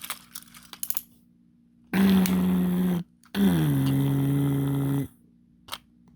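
A person's voice making low, growling engine noises for a toy truck: two drawn-out hums, the second dropping lower at its start and then holding steady. Brief rustling and clicking of toy handling comes just before.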